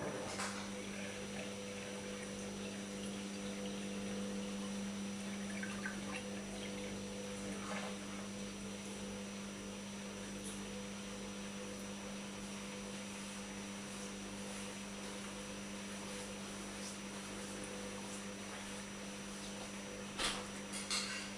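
Drops from a dripping tap landing one at a time, a handful spread several seconds apart, the loudest two close together near the end, over a steady electrical hum.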